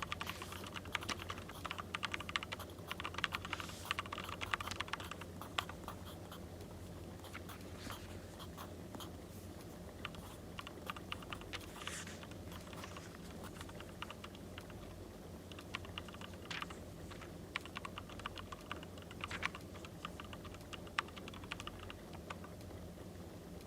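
Dense small clicks and scratches of writing on paper, busiest in the first few seconds and sparser after, over a steady low hum, with a fireplace's crackle in the mix.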